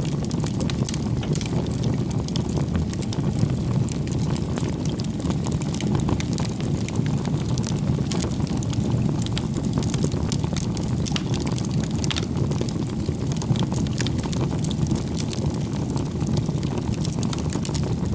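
Wood bonfire burning, with a steady low rumble under frequent small crackles and snaps.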